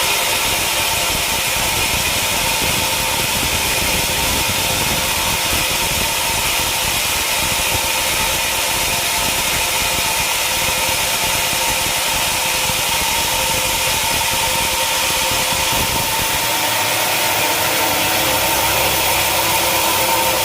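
Sawmill machinery running steadily: a continuous mechanical noise with a steady whine.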